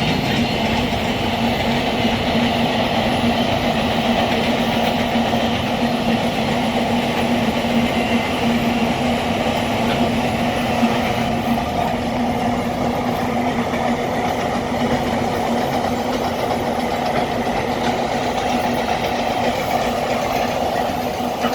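Freight train rolling steadily past, a continuous rumble of wagons on the rails with a steady low hum underneath.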